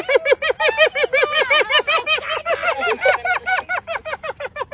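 Spotted hyenas laughing: a long, unbroken run of short high-pitched whoops, about seven a second, each note rising and falling.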